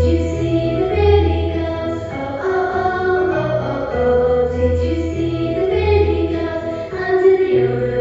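A song: voices singing over music with a bass line that changes note about once a second.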